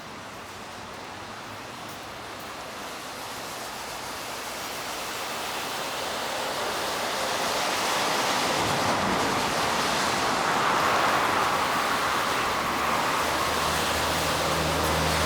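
A vehicle approaching on a wet, snowy street: the hiss of its tyres grows steadily louder over several seconds, and a low engine hum joins near the end.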